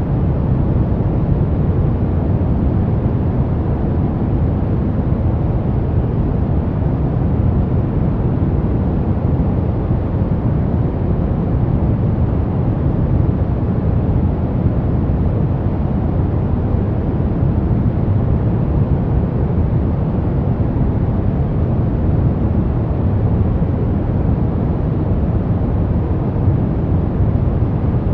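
Steady, unbroken pink noise: an even hiss weighted toward the low end.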